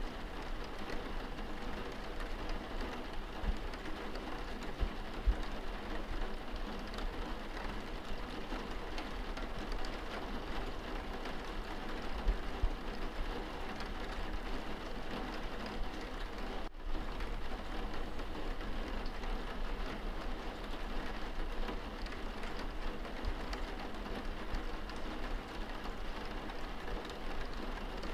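Rain on window glass heard from inside a room: a steady patter with a low rumble beneath it. The sound drops out for an instant about two-thirds of the way through.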